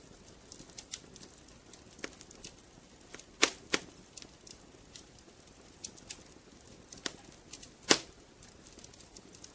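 Wood fire crackling in a fireplace: scattered sharp pops and ticks over a low hiss, with louder pops twice in quick succession about three and a half seconds in and once near eight seconds.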